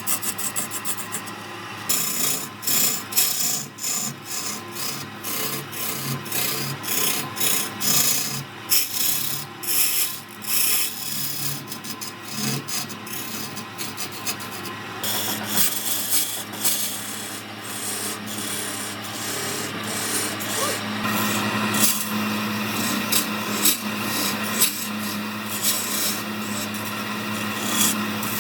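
A tool scraping against an epoxy-resin and wood blank spinning on a lathe. Rapid even ticking for the first two seconds gives way to irregular scraping strokes, then a steadier scrape over a low hum from about halfway.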